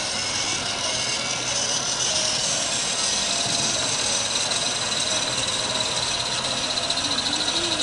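A garden-scale model locomotive running on the track. It makes a steady hiss with a high whine over it, and a quick rhythmic pulsing grows louder near the end.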